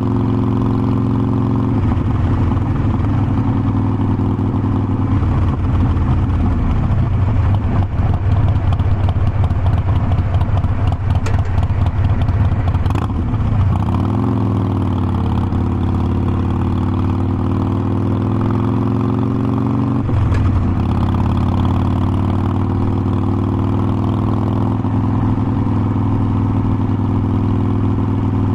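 Harley-Davidson Forty-Eight Sportster's air-cooled V-twin engine running on the road. Its pitch drops a few seconds in as the bike slows, runs choppy and loud for a while, then climbs again as it accelerates. After an abrupt change about two-thirds of the way through, it settles to a steady pitch.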